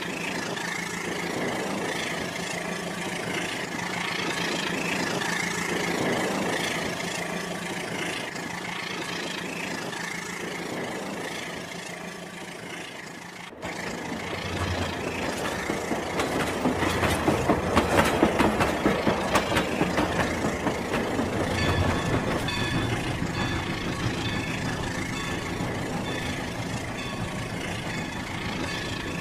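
Rail King battery-powered toy train running, with a steady motor hum and a rattling clatter from the wheels on the track. There is a short break about halfway, after which it gets louder with a fast run of clicks for a few seconds.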